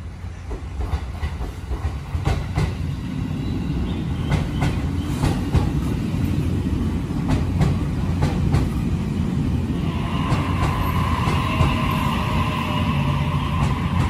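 E257-500 series electric limited-express train rolling along the platform, its wheels clacking over rail joints over a steady rumble. About ten seconds in, a steady high-pitched whine joins.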